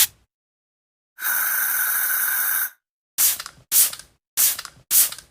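Small firework hissing for about a second and a half, then four sharp bangs about half a second to a second apart, each dying away quickly.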